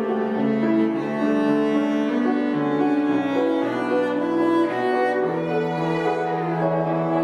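A bowed string instrument playing a slow melody of long held notes in a low-to-middle register, moving from one note to the next every second or so.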